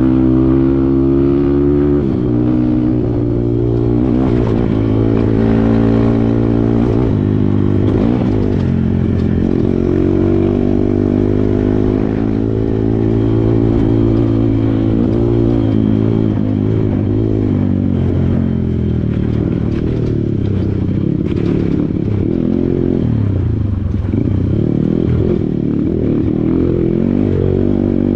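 Kawasaki KLX140 trail bike's single-cylinder four-stroke engine running under load, its revs rising and falling.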